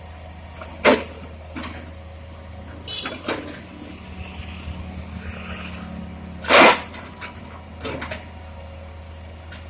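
Hitachi Landy excavator's diesel engine running with a steady low hum, broken by four sharp clunks from the loading work, the loudest and longest about two-thirds of the way through.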